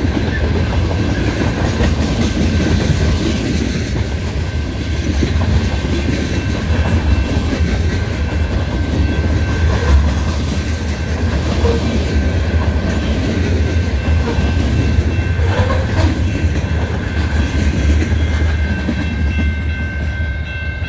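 Freight train of tank cars and covered hopper cars rolling past close by at speed: a steady heavy rumble with the clickety-clack of wheels over the rail joints. A thin high ringing tone runs over it, with a few more tones joining near the end.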